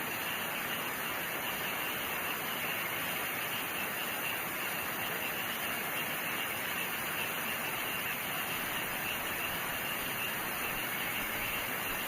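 Steady rain with crickets.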